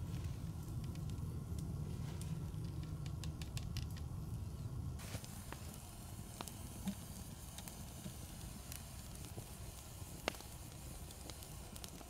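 Campfire crackling, with scattered sharp pops of burning wood. About five seconds in the sound changes abruptly: the low rumble drops away and a thin hiss with fewer pops remains.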